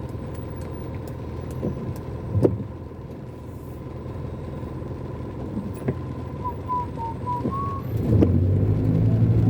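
Inside a car crawling in heavy rain traffic: a steady engine and road rumble with a few sharp knocks, the rumble growing louder near the end. From about two-thirds of the way in, a faint wavering whistle rises and falls over it.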